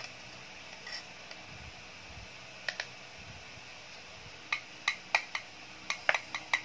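Sharp clicks and light taps of a wet-food tin and feeding utensils being handled, a few spaced ones at first and then a quick run of them in the last two seconds.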